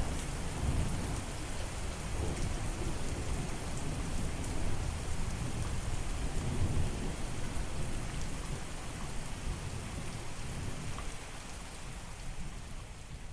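Steady rain falling, an even hiss, over a low rolling rumble of thunder that eases off near the end.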